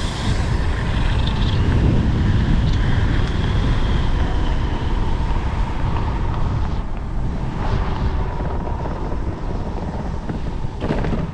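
Heavy wind buffeting the microphone while riding an electric scooter at full speed, with a faint high whine for a few seconds after the start.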